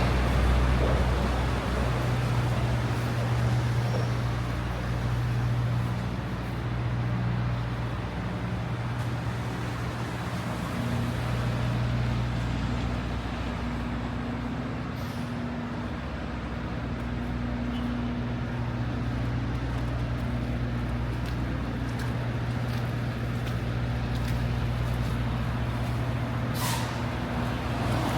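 City street traffic with a large vehicle's engine running close by: a steady low hum over the wash of passing traffic, with a short hiss near the end.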